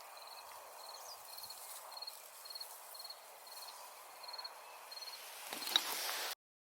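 Insect chirping outdoors in short, evenly spaced high chirps, just under two a second, over faint background hiss. Near the end a brief rustle or clatter is the loudest sound.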